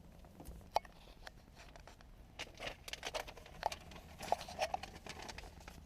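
Faint rustling and a scattered run of small clicks and knocks, things being handled, over a low steady hum.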